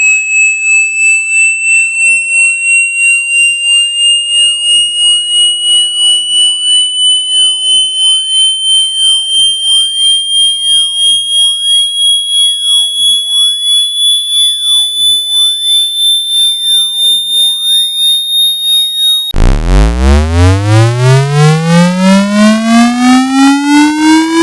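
Synthetic speaker-cleaning tone: a high, pulsing electronic tone climbing slowly in pitch, beating about twice a second. About 19 seconds in it switches abruptly to a low, buzzy tone that sweeps quickly upward.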